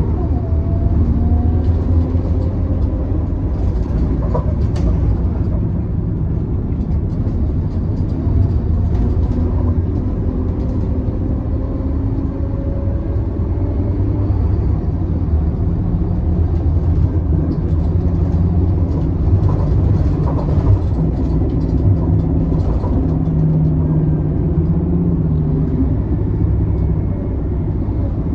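Scania K280UB city bus's diesel engine and drivetrain running under way, with a steady low rumble. Its pitch rises slowly as the bus accelerates, and short rattles and clicks come from the body.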